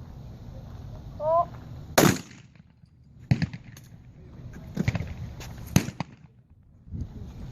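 Shotgun shots on a trap range: a short rising call, then a loud shot about two seconds in, followed by three more shots, the last two about a second apart.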